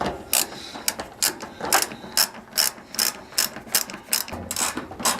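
Socket ratchet wrench being worked back and forth, its pawl clicking about four times a second.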